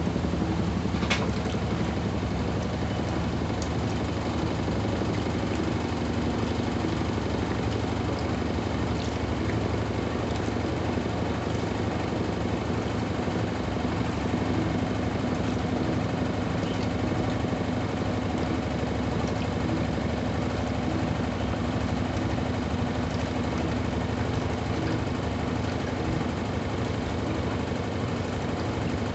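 Brastemp Intelligent 7 kg washing machine running mid-cycle: a steady motor hum, with a single short click about a second in.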